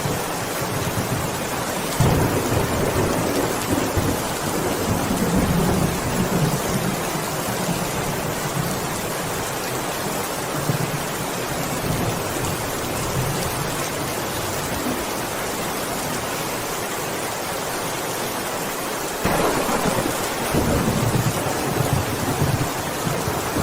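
Heavy rain pouring steadily, a dense even hiss with a low, rumbling undertone. The sound changes abruptly about two seconds in and again near the end, where it becomes louder and fuller.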